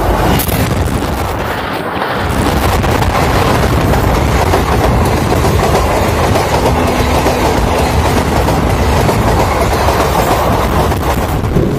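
Passenger train hauled by an Indian Railways WDP-4D diesel locomotive passing close by at track level: a loud, continuous rumble of steel wheels on the rails, with a dense rattle and clatter as the coaches roll past.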